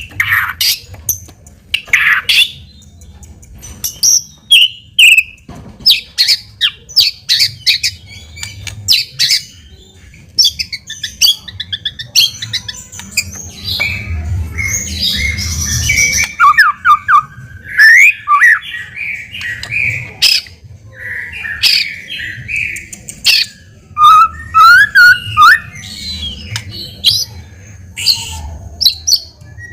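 White-rumped shama (murai batu) singing a long, loud, varied song of sharp clicking notes, rattles and gliding whistles with hardly a pause.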